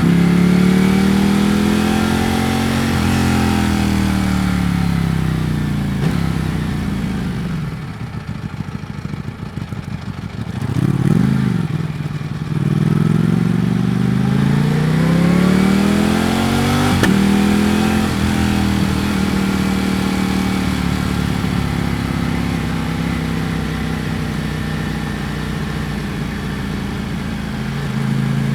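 Ducati Panigale V4 S V4 engine heard from the rider's seat. Its pitch falls as the bike slows and drops to a low, uneven off-throttle burble, with a quick throttle blip about eleven seconds in. It then pulls up through the gears and settles into a steady cruise.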